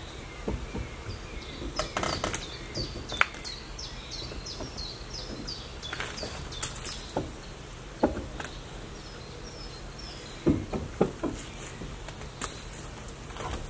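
A bird singing a quick run of short, repeated high chirps, with a second, fainter run later. Scattered sharp knocks and clicks, louder than the bird, come and go throughout, with a quick cluster of knocks about three-quarters of the way in.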